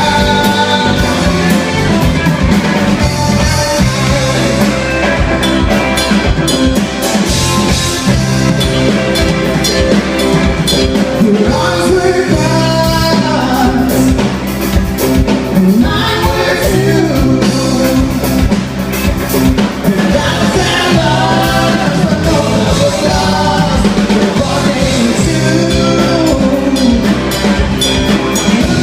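Rock band playing live, a drum kit keeping a steady beat under the band, with a lead melody rising and falling over it.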